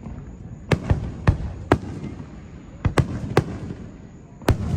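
Aerial fireworks bursting: about six sharp bangs at uneven intervals, with a low rumble between them.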